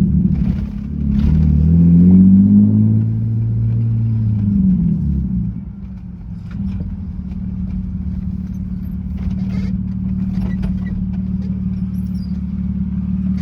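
BMW E36 car engine under way: it revs up, holds, and falls back about five seconds in, then runs at a steady, even drone.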